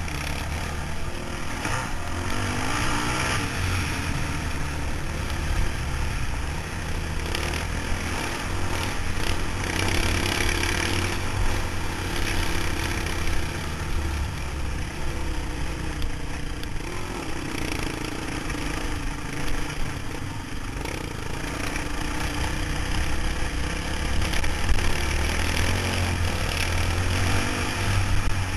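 A motorcycle running on the road: a steady low engine rumble under a rushing noise that swells and fades.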